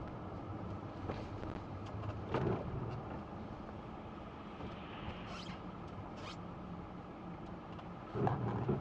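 Car on the move, with steady engine and road noise. Two brief louder sounds stand out, one about two and a half seconds in and one near the end.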